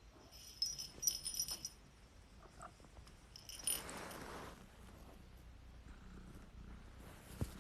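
Faint jingling of a small bell in two short spells, the first lasting over a second and the second about two seconds later, followed by a soft rustle.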